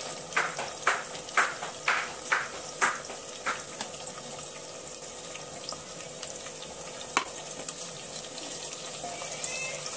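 Onions and chicken frying in oil in a pot, sizzling steadily. Over the first three seconds a run of sharp crackles, about two a second, comes as whole spices are tipped in.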